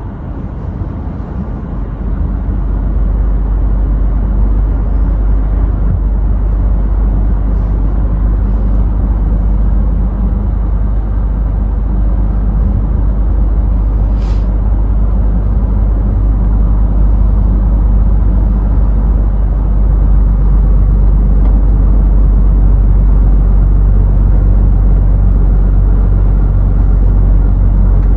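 Scania truck on the road: a steady low engine and road rumble that grows louder over the first few seconds. A brief high tick sounds about halfway through.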